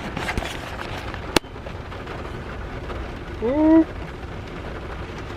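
Steady rain and road noise inside a car, with one sharp click about a second and a half in and a short rising hum from a person near the middle.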